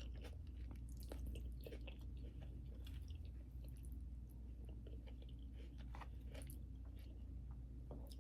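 Faint chewing and small mouth and food clicks of a person eating takeout food, over a steady low hum.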